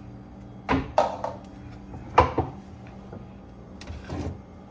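Food containers and jars being handled and set down: a few separate knocks and short clatters of glass and plastic, over a low steady hum.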